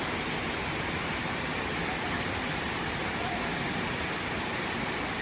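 Steady rushing of flowing water from a stream or waterfall, an even noise with no breaks.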